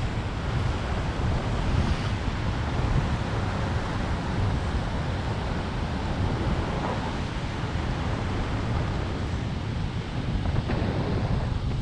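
Steady wind buffeting the microphone, a constant rumbling rush, with ocean surf washing under the pier.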